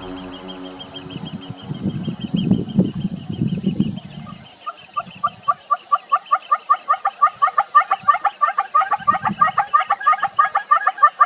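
A bird calling a fast run of repeated notes, about five a second, starting about four seconds in and growing louder. Before it comes a low gargling sound, and faint high chirps repeat throughout.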